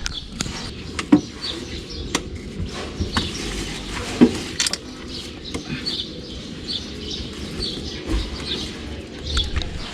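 Scattered clicks and knocks of a van's seat and engine cover being handled and lifted, two knocks standing out, about a second in and about four seconds in. Birds chirp faintly in the background.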